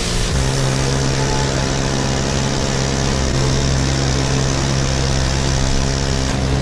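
Small outboard motor on a kayak running steadily under power, its engine note shifting once about a third of a second in.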